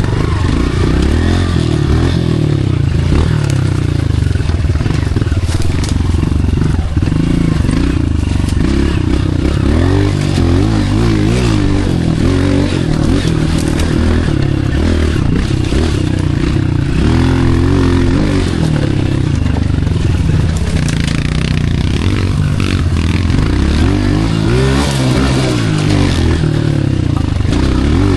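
Pit bike's small single-cylinder engine being ridden off-road, revving up and falling back over and over as the throttle is worked, with clattering knocks from the bike over rough ground.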